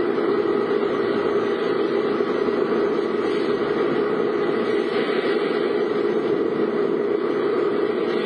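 Steady car running noise, engine and road rumble, unchanging throughout.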